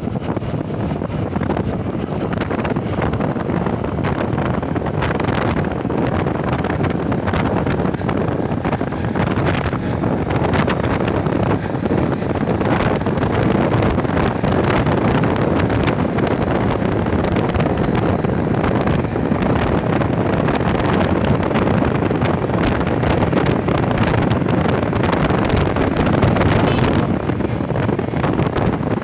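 Wind rushing over the microphone of a moving Honda Shine SP 125 motorcycle, a loud steady rush, with the bike's engine and road noise under it.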